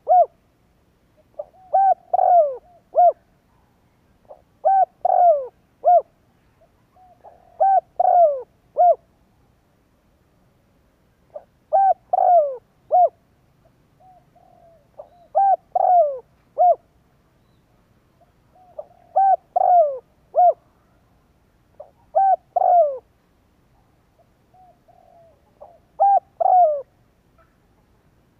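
Spotted dove cooing: about eight short phrases of three or four low, downward-sliding coos, repeated every three to four seconds.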